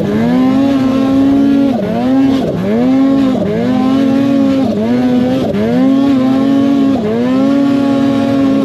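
Snowmobile engine running hard under throttle, its note repeatedly sagging and climbing back up about once a second as the rider works the throttle.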